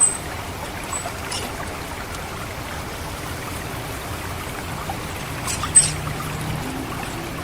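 Water steadily trickling and gurgling through a rice paddy. Over it come short, thin, very high 'cit' calls of an orange-headed thrush: one at the start, one about a second in, and one near the end.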